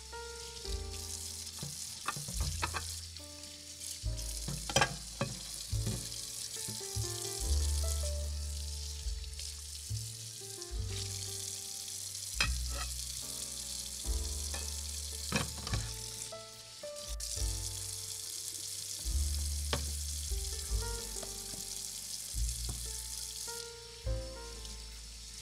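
Steady sizzling hiss of diced onion frying in a miniature saucepan, with scattered sharp clicks of small utensils against the pan. Background music with a stepping bass line plays throughout and is the loudest sound.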